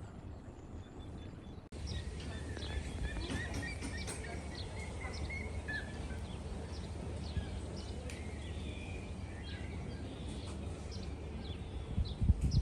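Many small birds chirping and calling, short high notes overlapping, over a steady low background rumble. The sound jumps suddenly about two seconds in, and a few loud low bumps come near the end.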